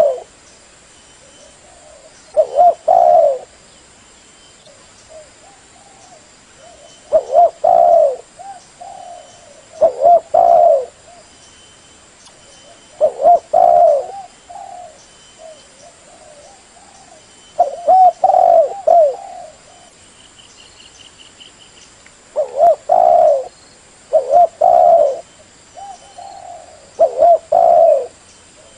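Spotted dove cooing as a trapping decoy: repeated short phrases of low, mellow coo notes, one phrase every three to five seconds.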